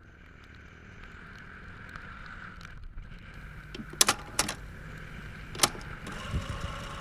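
Yamaha Xmax 250 scooter's single-cylinder engine running with steady road and wind noise. A few sharp clicks come between about four and six seconds in.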